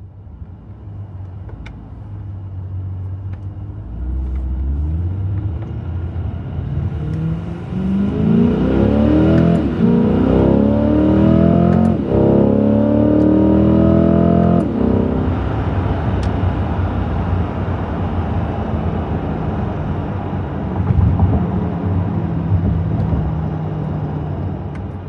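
C8 Corvette's 6.2-litre V8 accelerating hard through the exhaust: the engine note climbs, drops back at gear shifts about ten and twelve seconds in, then falls away near fifteen seconds as the throttle is lifted. After that it settles into a steady low rumble at cruise.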